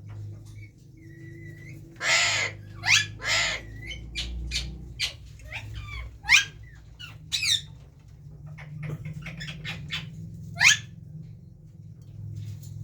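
Ringneck parakeets squawking: a run of short, sharp calls that sweep steeply in pitch, with two longer harsh screeches about two and three and a half seconds in.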